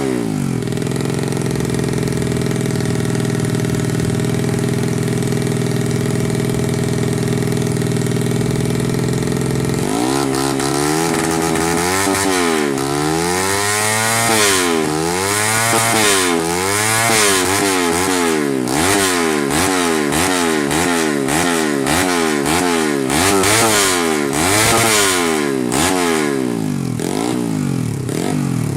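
Motorcycle engine whose revs fall back to a steady idle at the start, then, about ten seconds in, is revved again and again in quick blips, its pitch climbing and dropping each time.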